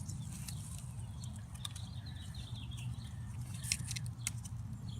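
Moluccan cockatoo chewing and nibbling at leaves and twigs with its beak, with a few sharp crackling clicks just before the end, over a steady low outdoor rumble.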